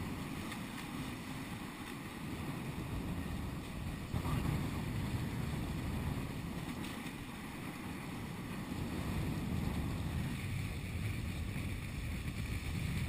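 Wind noise on the microphone over water washing past the hulls of a Nacra 5.2 sailing catamaran under way, getting louder about four seconds in.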